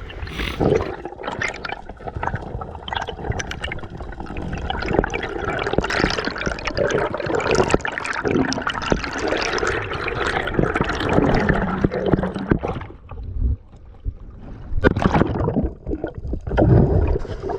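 Water sloshing and gurgling around a spearfisher's camera while he swims and dives, thinning out briefly near the middle.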